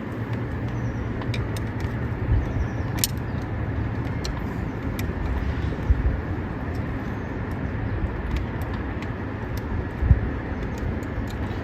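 Steady background traffic noise, with scattered faint clicks of a screwdriver working bolts on engine parts.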